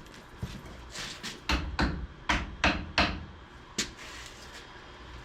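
A quick run of sharp knocks and clicks, about eight in under three seconds, from hands and tools working on the battery and its cable connections.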